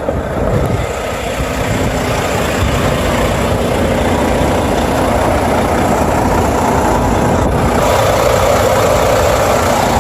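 Tractor-trailer's diesel engine running steadily at idle, with a loud rushing noise over it that grows slightly louder through the middle and holds to the end.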